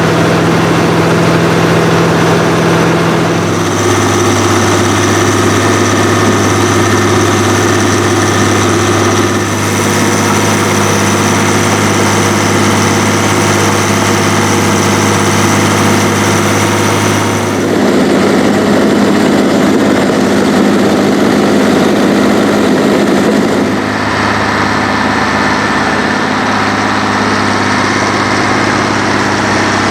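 Heavy diesel engines of a crawler and a big tractor working steadily under load while deep-plowing. The engine note shifts abruptly several times, to a different pitch and tone.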